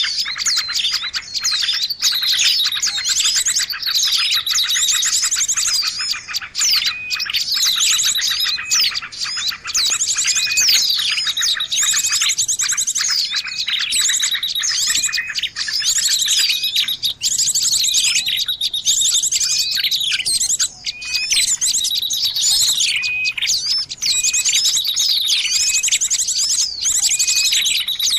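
A dense, busy chorus of small songbirds chirping and trilling over one another without pause, with fast buzzy trills and repeated sharp curved chirps. It is a noisy bird-lure recording of the kind played to draw in birds.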